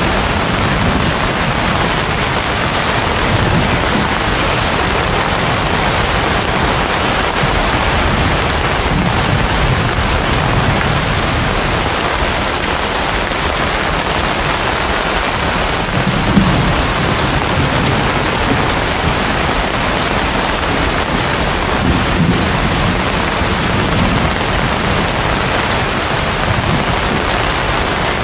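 Heavy rain pouring steadily onto banana leaves and palm fronds, a dense continuous hiss. Low rumbles swell and fade several times underneath.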